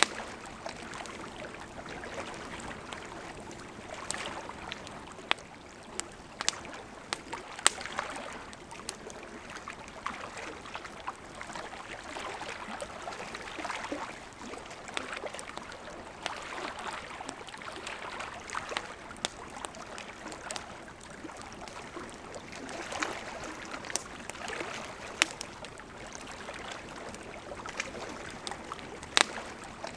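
Wood campfire burning: a steady hiss of flames with irregular sharp crackles and snaps, a few pops standing out louder than the rest.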